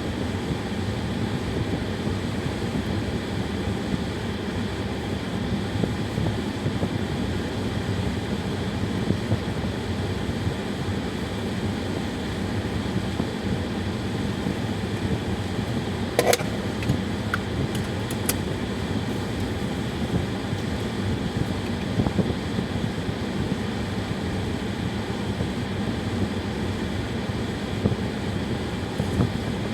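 Steady hum and road noise inside a car's cabin as it drives off, with one short click a little past halfway and a few faint ticks after it.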